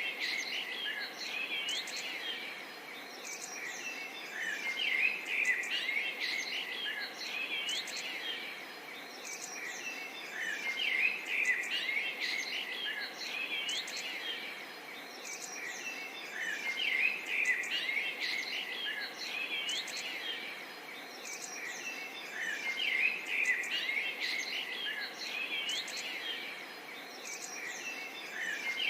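A chorus of many small birds chirping and whistling together over a faint steady hiss. The calls swell and ease every few seconds.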